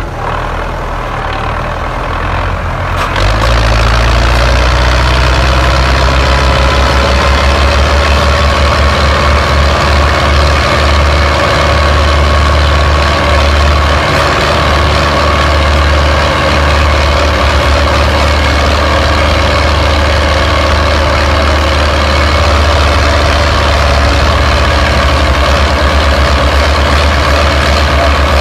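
Tractor diesel engines running hard and loud in a tractor tug-of-war. The deep engine drone jumps up about three seconds in as the throttle is opened, then holds steady under heavy load.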